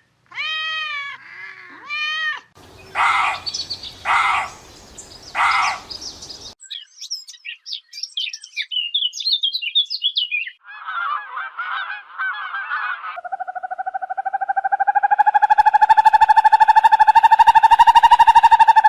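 A run of different animal and bird calls, one after another. First two arched calls, then three loud harsh calls and a stretch of high bird chirping. Near the end comes a long, even, pulsing trill that lasts several seconds.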